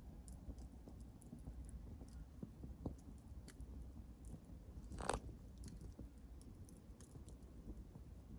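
Wood campfire crackling faintly with scattered sharp ticks, and one louder pop about five seconds in.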